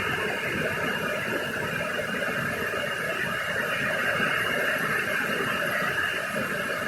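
Heavy rain and strong storm wind: a steady rushing noise.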